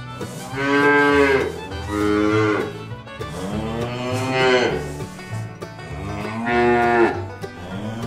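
Calves mooing: four separate calls of about a second each, the third one longer, over quiet background fiddle music.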